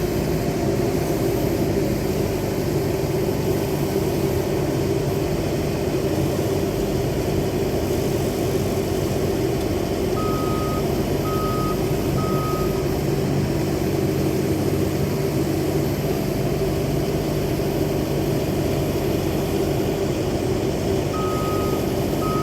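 Engine running steadily, with a vehicle's reversing alarm beeping three times about halfway through and starting again near the end.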